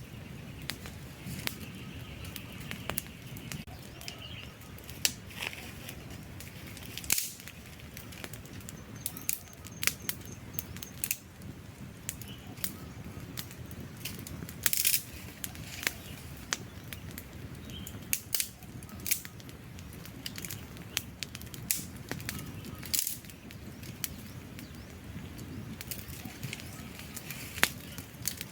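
Wood campfire burning, with irregular sharp crackles and pops of varying loudness over a low steady rush of flame.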